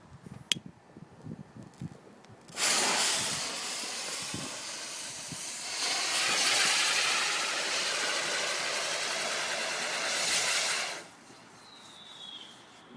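A lit firework spraying sparks with a loud, steady hiss. The hiss starts suddenly a couple of seconds in, swells a little midway, and stops abruptly about eight seconds later.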